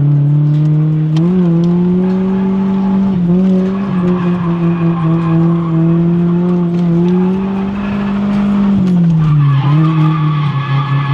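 Drift car's engine held high in the revs with small wavers, its tyres squealing as it slides, with a brief drop in revs near the end before it pulls back up.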